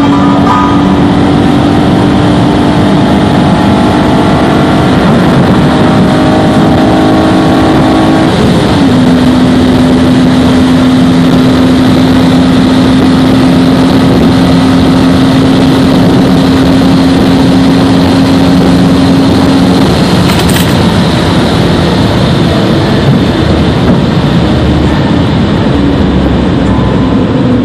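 Infiniti G35 coupe's 3.5-litre V6 under acceleration, its note rising slowly in pitch, then dropping suddenly about eight seconds in as it shifts up, then holding a steady pitch until it fades into heavy wind and road noise near the end.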